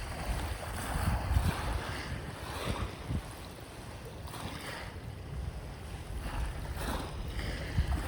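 Sea waves washing in and out on the shore, swelling and easing over a few seconds, with wind rumbling on the microphone.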